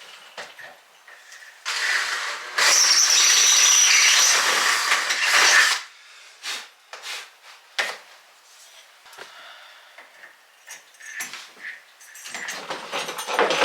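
A power drill runs for about four seconds, getting louder a second in, then stops; a few light clicks and knocks follow.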